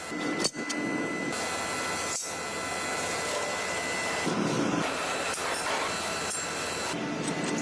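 Factory machinery running with a steady mechanical noise and a faint high whine. The texture shifts a few times.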